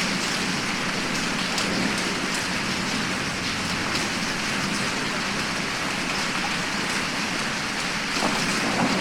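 Steady heavy rain pouring down, a recorded rainstorm sound effect, with a dense even hiss of falling water and scattered drops.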